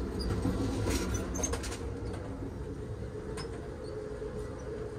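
Moving Amtrak Superliner train heard from inside, between cars: a steady rumble with a hum, a cluster of clicks and rattles about a second in and another click a little past three seconds, with faint squeaks.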